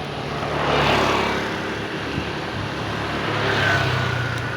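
Engine and road noise of passing vehicles, swelling twice. A thin steady whine comes in over the last second.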